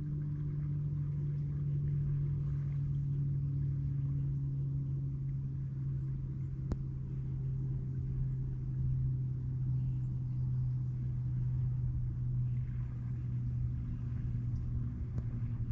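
An engine drones steadily, its pitch sinking slightly, with one sharp click about seven seconds in.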